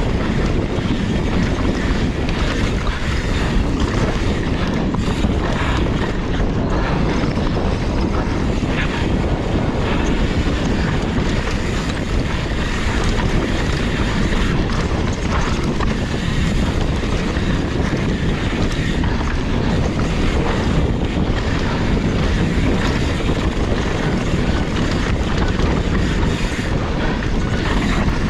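Wind rushing over the microphone of a camera riding on a downhill mountain bike at speed, with steady tyre roar and frequent short knocks and rattles from the bike over rough ground.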